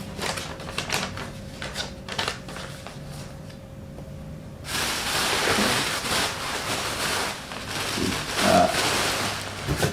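Light clicks and rustles of packaging and parts being handled; about halfway through, a loud even rushing noise starts suddenly and runs on, with a few short pitched sounds near the end.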